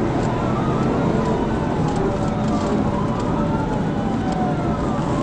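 Police cruiser's siren wailing, its pitch slowly rising and falling, over heavy road and wind noise during a high-speed pursuit.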